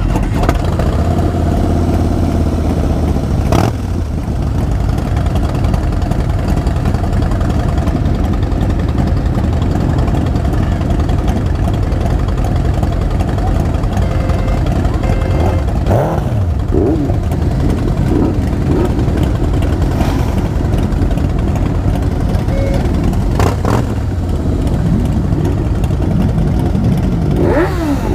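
Motorcycle engines running steadily, with a few engine revs rising and falling in pitch around the middle and near the end.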